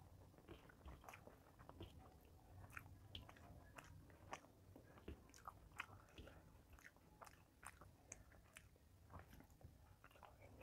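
Faint chewing, with scattered small irregular mouth clicks and smacks.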